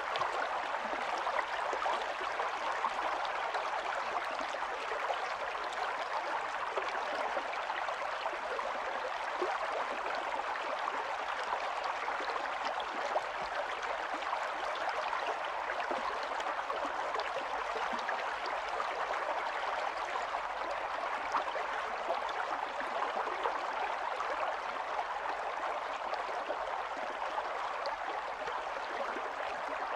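Small stream of running water, a steady rushing and gurgling flow.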